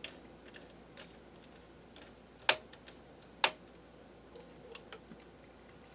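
Two sharp plastic clicks about a second apart, with faint light ticking around them, from hands and a small screwdriver working screws and parts on the laptop's case during disassembly.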